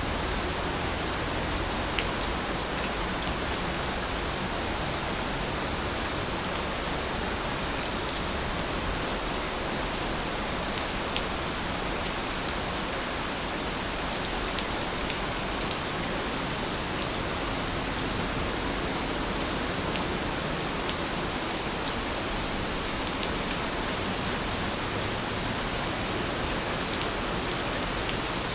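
Steady rain falling, an even hiss with scattered faint drop ticks. A few faint high chirps come in during the second half.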